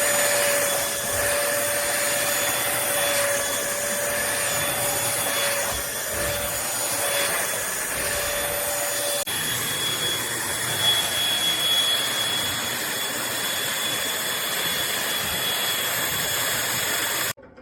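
Eureka NES212C corded stick vacuum running steadily: rushing air with a high motor whine. A lower hum drops out about halfway, and the sound cuts off abruptly near the end.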